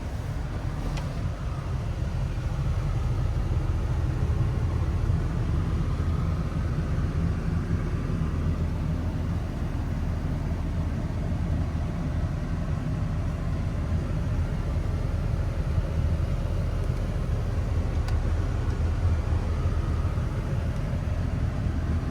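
Chevrolet 6.0L Vortec gas V8 idling with a steady low rumble.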